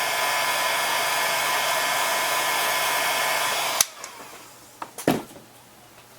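A hot-air blower runs steadily, reheating cold plastic to soften it. About four seconds in it is switched off with a click, and a few light knocks of handling follow about a second later.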